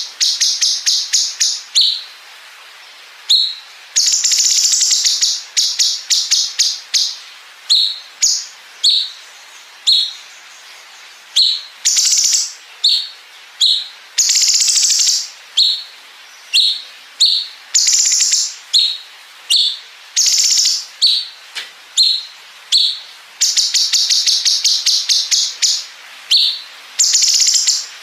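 Cucak cungkok singing: bursts of rapid, high chattering trill lasting a second or two, the long 'bren' fill, alternating with short single notes repeated about twice a second.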